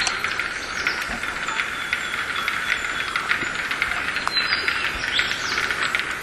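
Wild birds calling over a steady, dense hiss full of fast, irregular clicks, with short high chirps scattered through it.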